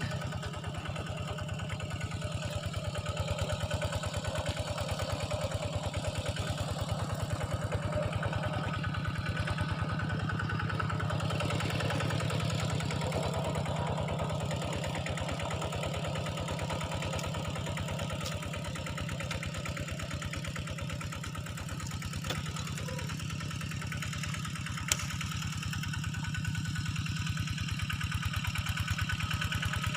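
A small engine running steadily at idle, with an even pulsing beat, and one sharp click about 25 seconds in.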